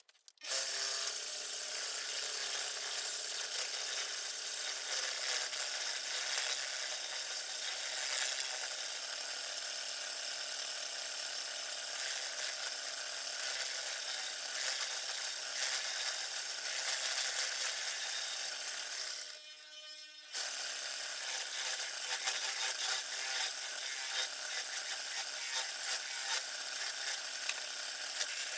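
Wood lathe turning a rotten alder blank while a turning tool cuts it: a steady hiss of cutting over the lathe's motor hum. The cutting stops for about a second about two-thirds of the way through, leaving only the lathe running, then starts again.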